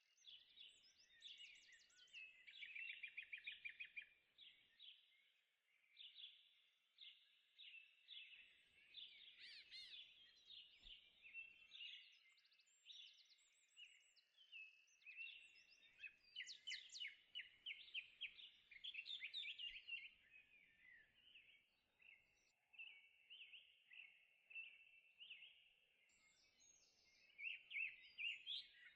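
Faint birdsong: quick high chirps and rapid trills, one song after another with short gaps.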